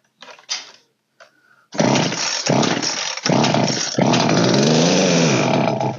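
Old Poulan 3616 two-stroke chainsaw starting and running, its carburettor's low and high mixture screws just opened for adjustment. It catches about two seconds in, stumbles a few times, then runs steadily with one rise and fall in revs before cutting off near the end. A few light clicks come before it starts.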